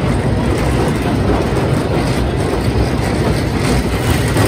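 Kurobe Gorge Railway narrow-gauge torokko train running, heard from one of its open carriages: a loud, steady rumble and rattle of wheels on the rails.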